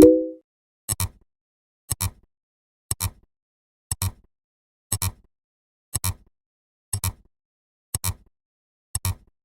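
Sharp double clicks about once a second, evenly spaced like a ticking clock, with a short, louder pitched blip right at the start.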